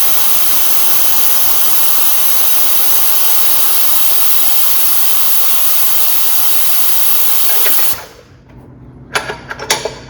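Compressed air hissing steadily as the Govoni GO325 air-operated coil spring compressor is run. The hiss cuts off abruptly about eight seconds in, followed by a few short sharp clicks and bursts of air.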